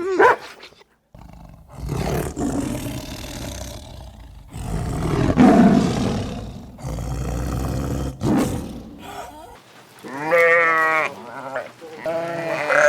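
A mix of animal sounds: a short call at the very start, then several seconds of rough, noisy rumbling. In the last three seconds comes a series of wavering, quavering bleats from a young goat or lamb-like animal.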